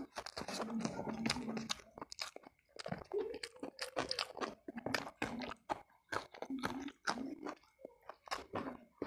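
A person chewing crunchy fried food close to the microphones, with many quick sharp crunches.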